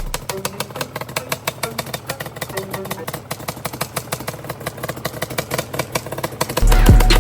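Yamaha Banshee's twin-cylinder two-stroke engine idling through Pro Circuit exhaust pipes, a rapid, uneven pulsing. Louder music with a heavy beat comes in near the end.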